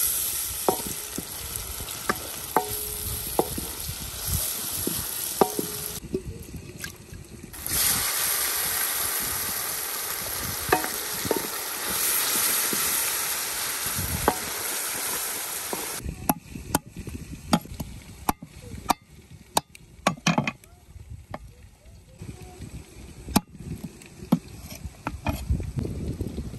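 Chopped onions frying in ghee in a karahi, a steady sizzle that swells about eight seconds in and dies down after about sixteen. The stirring utensil scrapes and knocks against the pan throughout, and the knocks are more frequent once the sizzle drops. The onions are being fried without browning them much.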